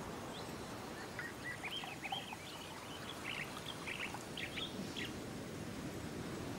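Birds chirping, a quick series of short high calls that stop about five seconds in, over a steady faint background hiss of outdoor ambience.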